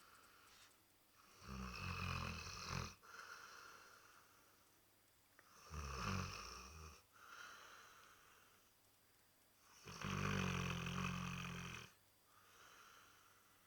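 A Labrador retriever snoring in its sleep: three loud snores about four seconds apart, each followed by a softer, breathy exhale.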